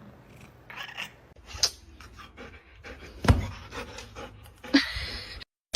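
A pet's short, noisy panting breaths with a few sharp knocks, the loudest a little past three seconds in, and a longer breathy hiss near the end.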